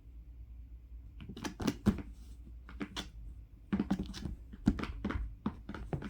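Irregular light taps, clicks and rustles, several in quick clusters, starting about a second in.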